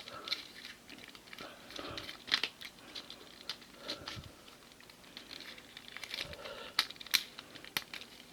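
Hard plastic parts of a Transformers Sandstorm action figure being handled and pushed into place, with scattered sharp clicks over faint rustling.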